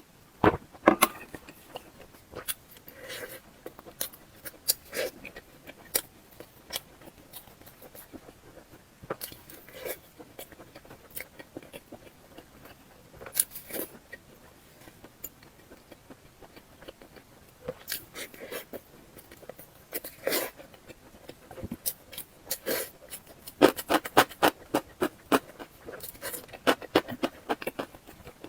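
Close-miked eating sounds: chewing with sharp mouth clicks and crunches, scattered at first and then coming thick and fast for a few seconds near the end.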